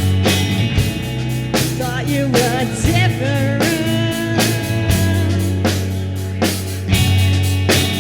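Rock band playing an instrumental passage: drum kit keeping a steady beat under bass and guitar, with a lead line that bends and wavers in pitch through the middle.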